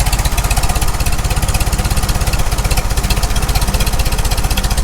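Farmall Super M's freshly rebuilt four-cylinder engine idling with a steady, even firing rhythm while the distributor is turned to set the ignition timing.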